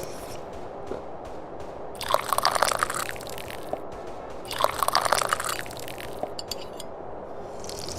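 Someone slurping sips of tea, twice, each sip about a second long, over steady faint background noise.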